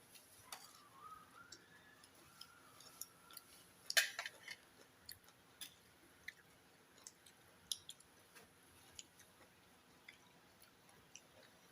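Quiet eating sounds: chewing with scattered small clicks, the sharpest about four seconds in.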